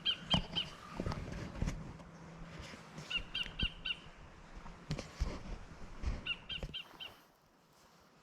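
A bird calling in quick runs of about four repeated notes, three times, over footsteps on a bush track. The sound drops away sharply near the end.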